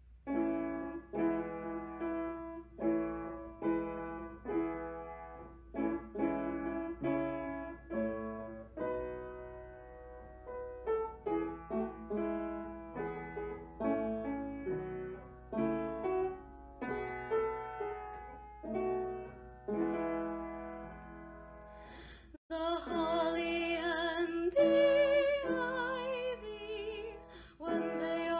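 Piano playing the introduction to a Christmas carol in struck chords; about 22 seconds in, after a short break, women's voices come in singing with vibrato over the piano.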